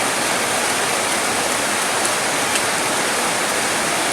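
Steady, even rain falling hard, a dense hiss with a few faint drop ticks.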